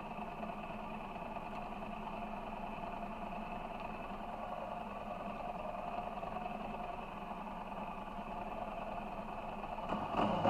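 Ducati Monster 696's air-cooled L-twin engine running steadily at low revs as the bike rolls slowly, with a louder, rougher patch near the end.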